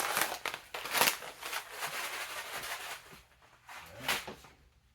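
Dry rice being poured into a cooking pot: a rattling, rustling rush with surges near the start and about a second in, tapering off after about three seconds.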